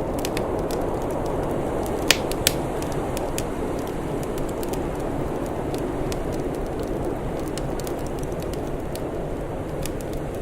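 Wood fire crackling, with scattered small snaps and two sharper pops close together about two seconds in, over a steady low rushing noise.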